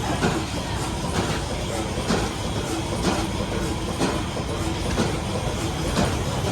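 Antique Olin stationary gas engine running, firing with a sharp beat about once a second over a steady mechanical clatter.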